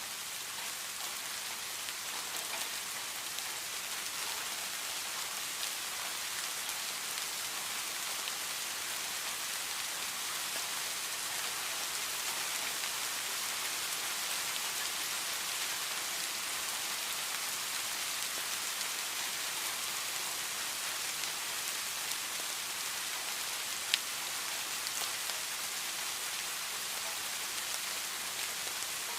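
Steady rain falling, an even high hiss of many small drops. About three-quarters of the way through, a single sharp click stands out.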